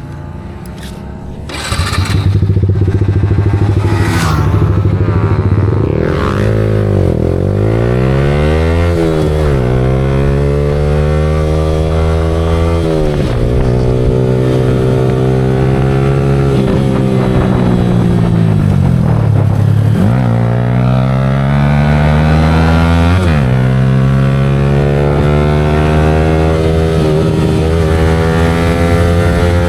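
Yamaha R15 V4's single-cylinder engine through an aftermarket Leo Vince exhaust, running hard with the revs rising and falling again and again. It gets much louder about two seconds in, with a few clicks just before.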